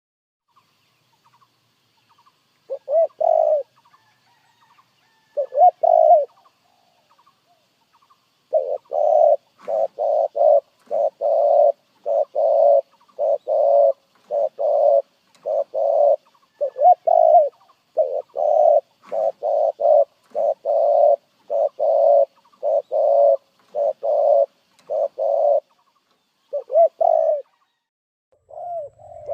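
Spotted dove cooing: two short coos, then from about eight seconds in a long run of evenly repeated coos, the rapid display coo (gù) that keepers prize.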